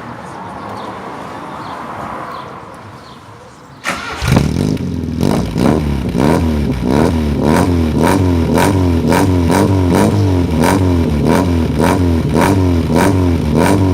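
Volkswagen AP 1.8 four-cylinder engine with a shaved cylinder head, in a square-body Gol. It comes in suddenly about four seconds in and is then blipped again and again, its pitch rising and falling about twice a second with a sharp crack on each blip. A softer, steady noise comes before it.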